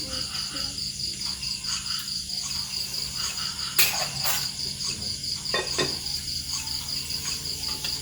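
Insects chirring in a steady, high, evenly pulsing trill, with a few sharp knocks around the middle.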